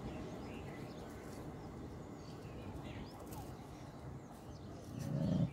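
Faint rumble of a passenger train's wheels on the track, fading as it pulls away into the distance, with birds chirping. A short, louder low sound comes near the end.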